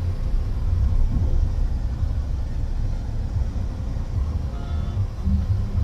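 Low, steady rumble of a car on the move, with no clear engine note standing out.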